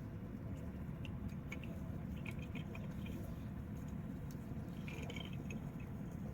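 Wood fire crackling, with scattered sharp pops and snaps over a steady low rumble, and a few brief squeaks about halfway through and again near the end.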